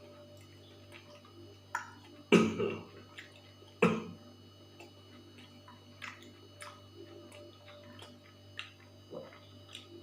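A person eating: scattered small wet mouth clicks and smacks of chewing, with two louder knocks about two and four seconds in, over a steady low hum.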